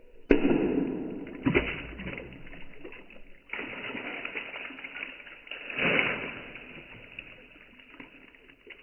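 Broken clay roof-tile shards dropped into a bucket full of rainwater, splashing four times. Each splash starts suddenly and fades over a second or two; the first is the loudest.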